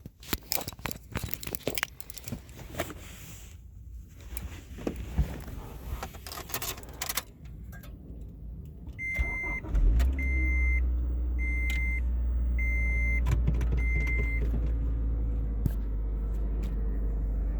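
Keys jangling and handling clatter, then a dashboard chime beeping five times as the 2011 Scion tC's 2.5-litre four-cylinder is started from cold about ten seconds in. The engine then runs at a steady idle.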